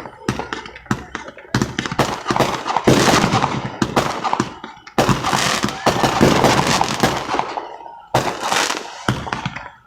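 Fireworks going off in rapid volleys: dense runs of sharp pops and crackling, with fresh loud bursts starting about a second and a half in, at three seconds, at five seconds and near the end.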